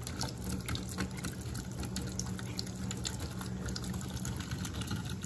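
Kitchen faucet running a thin steady stream into a stainless steel sink, with small irregular splashes as a cat laps at the stream.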